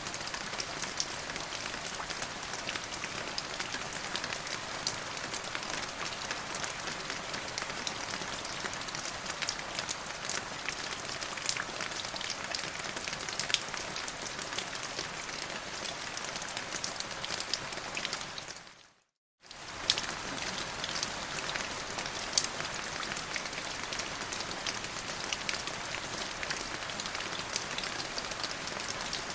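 Steady rain falling, a dense even patter with sharper single drop hits scattered through it. About two-thirds of the way through it fades out to silence for half a second, then comes straight back.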